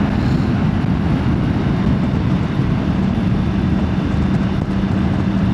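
Motorbike riding at motorway speed heard through a helmet-mounted wireless mic with noise cancellation off: a loud, steady rush of wind over a steady low engine hum.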